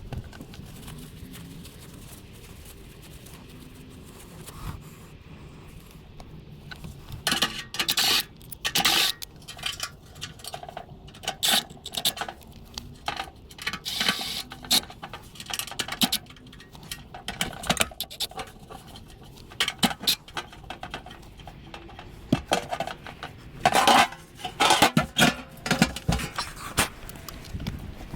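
Irregular metal clinks, clatters and scrapes, like tools and metal parts being handled, starting several seconds in and going on in uneven bursts.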